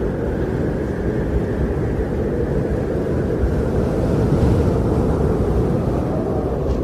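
Wind blowing steadily as a deep, low rushing rumble, swelling slightly about four seconds in.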